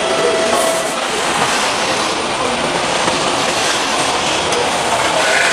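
Steady machinery din of a motorcycle assembly line: an even clattering noise with no pauses, and a brief higher squeal near the end.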